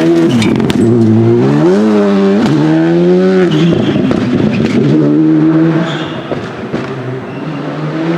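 Rally car engine revving hard, its pitch climbing and dropping repeatedly through gear changes and lifts off the throttle, with a few sharp exhaust cracks about half a second in. It grows quieter from about six seconds in.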